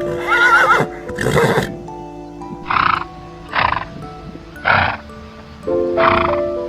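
A horse neighing: one long whinny with a wavering pitch, then a rough noisy burst and four short calls spaced about a second apart. Background music with sustained notes plays underneath.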